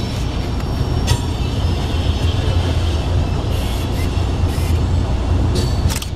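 Passenger train rolling through an interlocking, heard from inside its rear car: a steady low rumble with a few sharp clacks as the wheels cross switches and rail joints.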